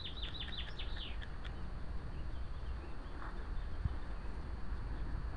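A bird calling: a quick run of short, falling chirps in the first second and a half, over a steady low rumble.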